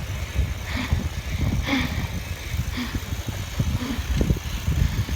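Wind buffeting the microphone of a phone held while cycling: a steady, fluttering low rumble.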